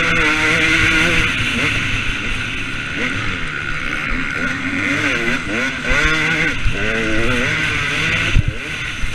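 KTM 250 SX two-stroke motocross bike engine revving up and down repeatedly as it is ridden, with wind rushing over the microphone. A sharp knock comes near the end.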